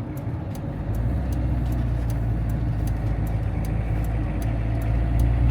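Steady low engine and road rumble inside a moving motorhome, a little louder about a second in, with faint regular ticking, two or three a second.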